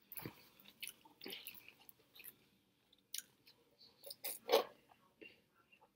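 Close-miked mouth sounds of a person chewing a sandwich: soft wet smacks and small clicks. There is a louder burst about four and a half seconds in as she sips soda through a straw.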